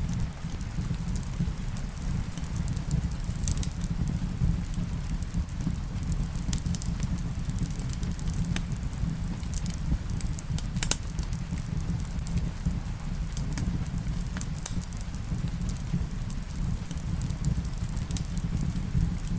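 Wood fire in a fireplace crackling, with irregular sharp pops over a steady low rumble, and rain in the background.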